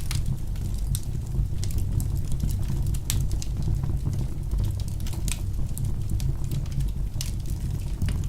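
Wood fire burning in a fireplace: a steady low rumble of flames with irregular sharp crackles and pops several times a second.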